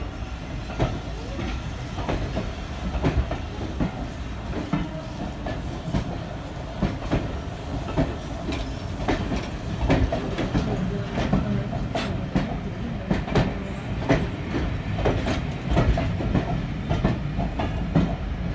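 Railway train running along the track with a continuous rumble, its wheels clicking and knocking over rail joints many times.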